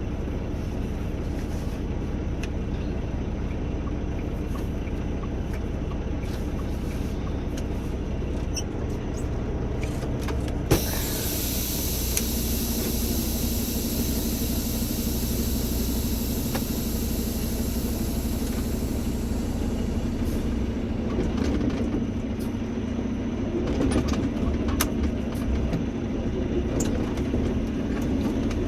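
A large truck's engine running steadily. About ten seconds in, a click is followed by a high hiss that lasts about nine seconds, and a steady engine tone rises in from about twelve seconds.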